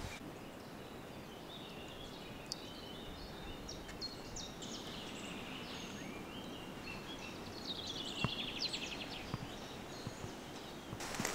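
Songbirds singing faintly over a steady background hush: scattered short chirps and whistles, with a rapid trill late on.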